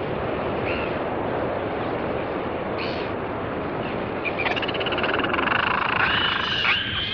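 Royal albatrosses calling over a steady rushing background: from about halfway, a long rattling, croaking cry, then higher drawn-out calls near the end.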